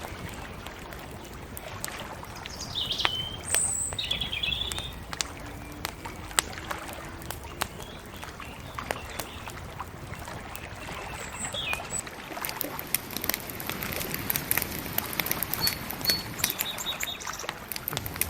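Small birds chirping in short calls over steady outdoor background noise, with sharp crackles of a bonfire that grow denser in the latter half.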